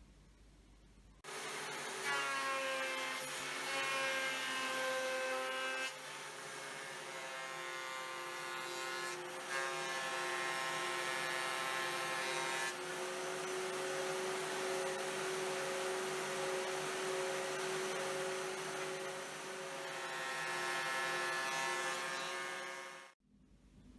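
Electric power tool running steadily with a constant whine, working wood, in several joined stretches that start and stop abruptly.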